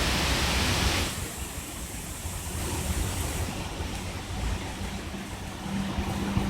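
Rain falling, with wind noise on the microphone and a low rumble. A louder hiss drops away about a second in, and a steady low hum comes in near the end.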